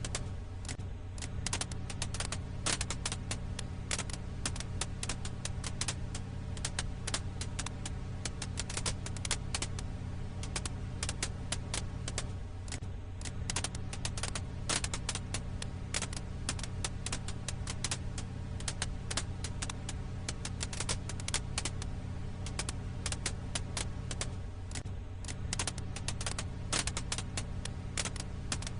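Firewood crackling in a campfire: dense, irregular pops and snaps over a steady low rumble, with a short dip in the rumble about every twelve seconds.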